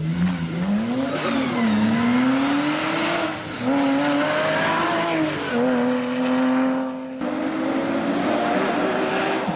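Porsche competition car's engine pulling hard, its pitch climbing and falling, with several gear changes.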